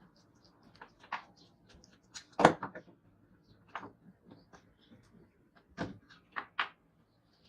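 Irregular clicks and knocks of tools and parts being handled while a rusty children's scooter is worked on. The loudest knock is about two and a half seconds in, with a quick cluster of knocks near the end.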